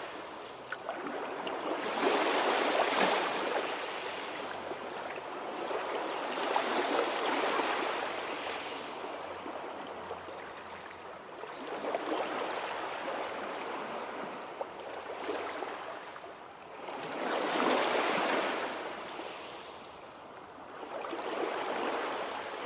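Sea surf: waves breaking and washing in, swelling and ebbing about every five seconds, loudest about two and eighteen seconds in.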